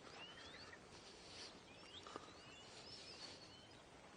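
Faint birdsong: several short chirps and twittering notes that glide up and down, over a quiet outdoor background, with a small click about two seconds in.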